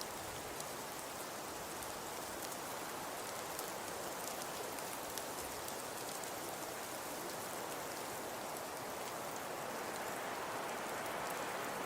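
Fireplace crackling: a steady soft hiss dotted with many small pops and ticks, getting slightly louder near the end.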